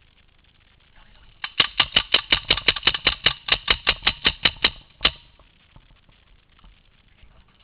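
Paintball marker firing a rapid burst of about eighteen shots, roughly six a second, starting about a second and a half in, followed by one last shot about five seconds in.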